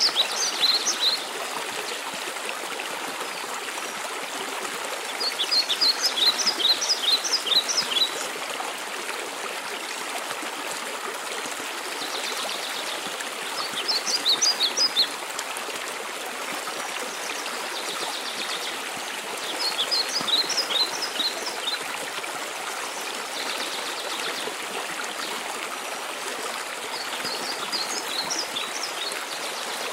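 Waterfall rushing steadily. A songbird sings a short phrase of rapid high notes about every seven seconds, five times in all.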